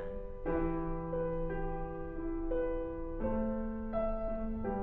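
Keyboard playing slow, sustained chords, changing to a new chord roughly every second.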